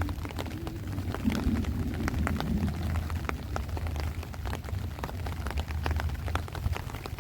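Heavy rain falling, with many separate drop hits close by over a steady low rumble of wind.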